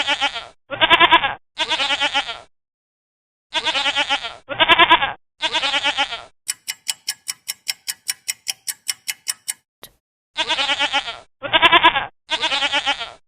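Bleating livestock calling in sets of three bleats: two sets close together, then three more a few seconds later. Between them, a clock ticks quickly, about six times a second, for about three seconds.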